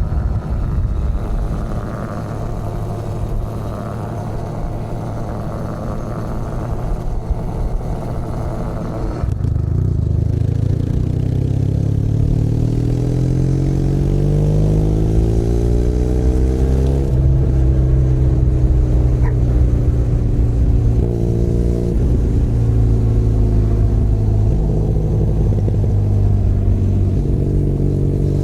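Benelli Leoncino 500 Trail's parallel-twin engine heard from the rider's seat: running quieter and rougher off the throttle at first, then opening up about a third of the way in with a climbing pitch, which drops at an upshift about midway and shifts a few more times after.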